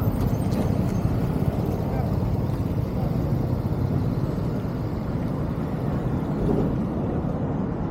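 Steady low road and wind noise from a vehicle moving through city traffic.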